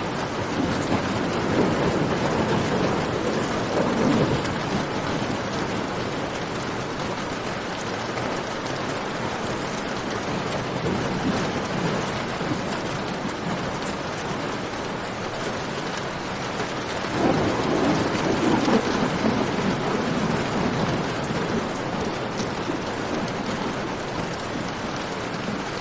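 Steady heavy rain with scattered sharp crackles, and two low rolls of thunder, the first about a second in and the second about seventeen seconds in.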